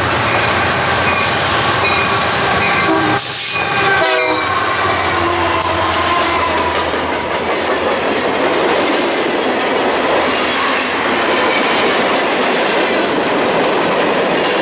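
Freight train cars rolling past close by: a steady rumble with wheel clatter on the rail joints. About three seconds in there is a brief high hiss, and a few held tones ring out for a couple of seconds.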